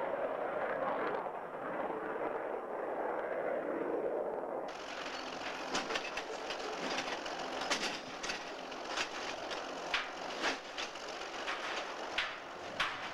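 A steady rushing noise gives way abruptly, about five seconds in, to railcars rolling on track with irregular sharp clanks and clicks.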